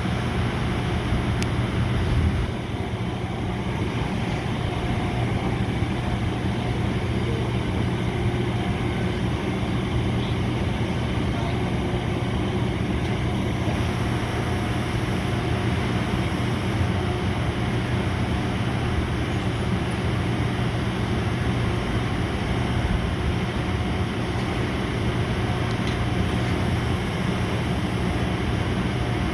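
Boat engine running steadily, a constant low hum with an even pitch throughout, over a wash of water and wind noise.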